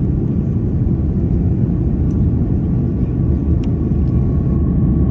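Steady low rumble of an Airbus A330 airliner's cabin in flight: engine and airflow noise heard from a passenger seat.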